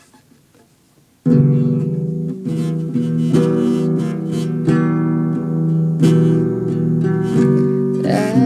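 Acoustic guitar strumming chords, starting suddenly about a second in after a near-quiet pause: the instrumental intro of a song.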